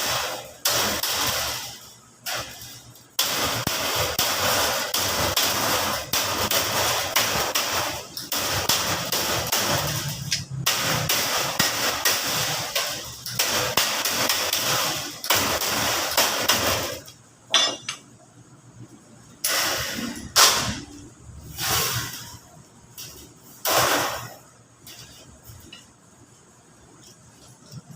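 Thin sheet metal being worked by hand: a long stretch of rattling and scraping, then a few separate short clanks near the end.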